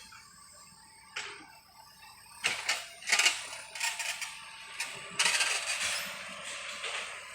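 A run of irregular metallic clanks and knocks, closing with a denser rattling clatter about five seconds in.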